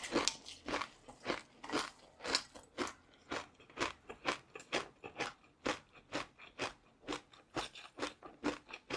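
Close-up chewing of crunchy food, a steady run of crisp crunches about two a second.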